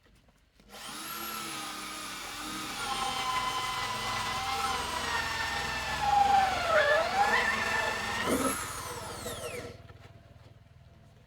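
Electric power tool motor running with a steady high whine for about nine seconds. Its pitch dips for a moment about two-thirds of the way in, then it is switched off and spins down with a falling whine.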